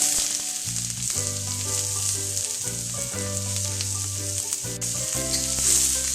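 Garlic, diced onion and green onion whites sizzling in a hot wok as they brown, a steady frying hiss.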